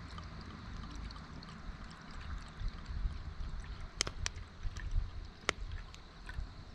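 Wood campfire crackling: scattered small snaps, with three louder sharp cracks about four and five and a half seconds in, over a low steady rumble.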